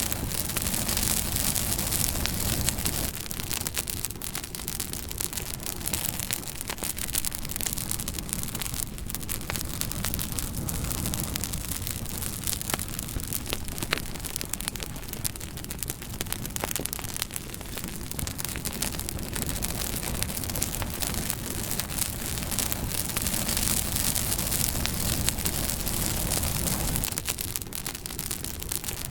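Campfire crackling: a dense run of small pops and snaps over a steady low rush from the flames.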